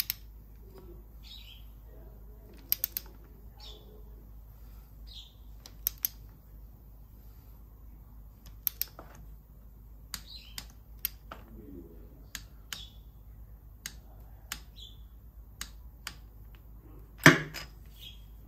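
Irregular sharp clicks and taps of tools being handled, with one louder knock near the end, while birds chirp in the background.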